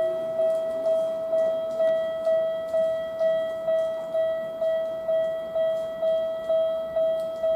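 Railway level-crossing warning bell ringing: one tone struck over and over, about two strikes a second. It is the crossing's signal that a train is approaching.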